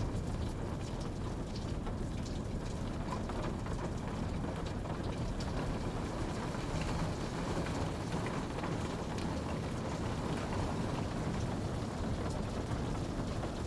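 Steady rain falling: an even hiss full of small, scattered drop ticks.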